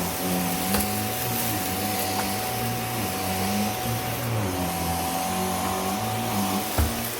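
Vacuum cleaner running steadily: a constant motor whine over a hiss of airflow, with a lower hum that shifts up and down in pitch. A few light clicks, and a short thump near the end.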